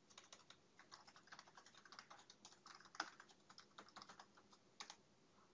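Faint computer keyboard typing: quick, irregular keystrokes, with a louder key strike about three seconds in.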